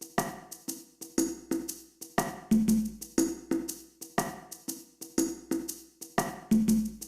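BOSS DR-01S Rhythm Partner drum machine playing a factory preset groove of sampled hand percussion: crisp pitched drum hits with clicks and shaker-like ticks, about three to four strokes a second, in a pattern that repeats about every two seconds.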